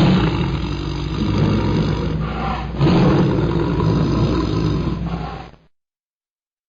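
Bengal tiger roaring: two long roars run together, the second starting about three seconds in, and the sound stops about five and a half seconds in.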